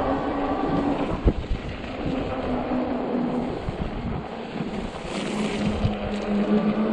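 Fat-tire e-bike's hub motor whining under power over rough noise from the fat tires on snow and ice, with a sharp jolt about a second in. The whine climbs a little in pitch near the end as the bike speeds up.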